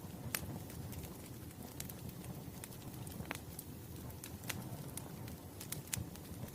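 Burning wood fire crackling: irregular sharp snaps and pops over a steady low rumble of flames.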